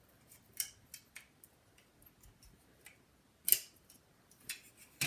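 A few separate light clicks and taps of plastic and metal parts being handled as the Pentium III CPU card is taken apart, the loudest about three and a half seconds in.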